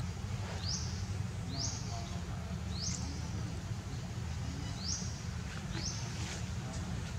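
A bird calling over and over: a short high note that sweeps up and then holds, about once a second, with a pause midway. A steady low rumble runs underneath.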